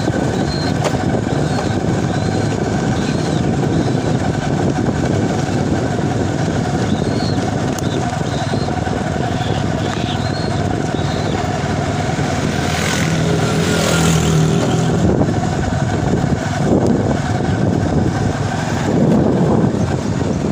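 Motor vehicle running steadily on the road, with dense engine and road noise throughout. Short high chirps repeat over it, and a louder swell passes about two-thirds of the way through.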